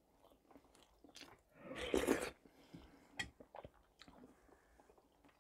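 A person chewing a mouthful of shchi (cabbage soup with potato), close to a lapel microphone, with small wet mouth clicks. About two seconds in there is one louder, brief noisy sound from the mouth.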